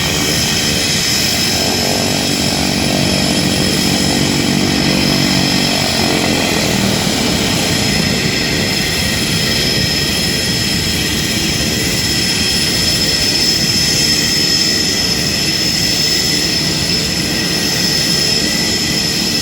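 Skydiving jump plane's engine and propeller running steadily, with a high whine over the noise; a lower propeller hum fades out about six or seven seconds in.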